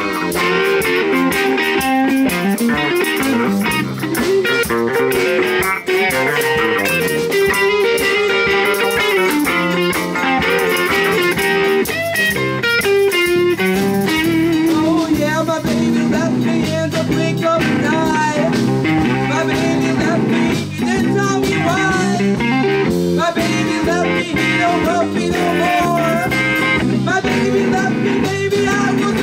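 A band playing a blues song, with electric guitar lines, including bent notes, over a steady lower accompaniment.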